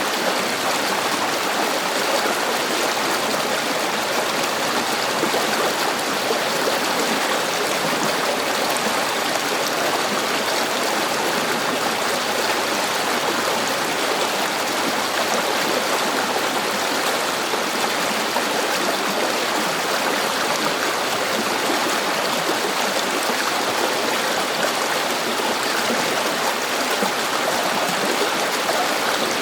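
River water flowing steadily over rocks, an even rushing and gurgling with no change.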